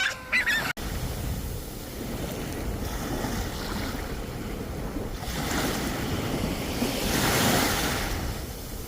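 Ocean surf: waves rolling in and breaking, swelling to the loudest wash about seven seconds in, with wind on the microphone. Right at the start a brief pitched cry is cut off abruptly.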